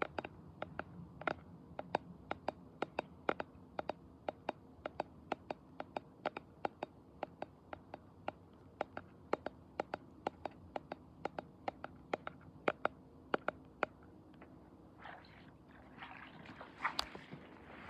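Irregular sharp clicks and crackles, several a second, over a faint steady low hum, with a rustling noise coming in near the end.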